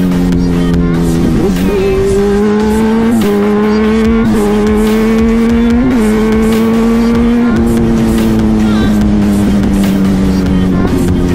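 Kawasaki Z1000 inline-four engine running under way. Its note holds or creeps slowly upward, then steps to a new pitch several times as revs change.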